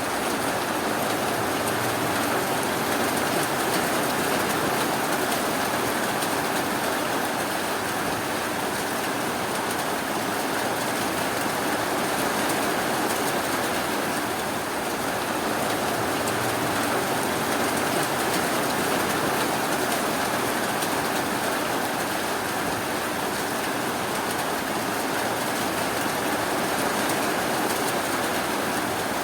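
Steady rain falling, an even rushing hiss of rainfall with no changes or distinct drops.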